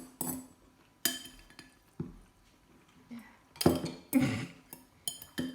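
Eating utensils knocking and clinking against a bowl, several separate irregular strikes with a short ring after some of them, as the last of a bowl of instant ramen is scooped up.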